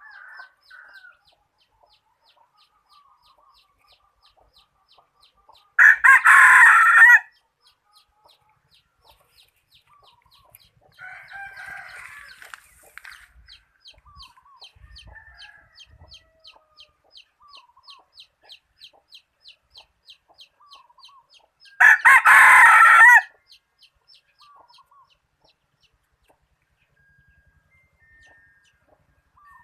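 A decoy junglefowl rooster crowing twice, about sixteen seconds apart, each crow short and loud. Between the crows come softer clucks and short calls.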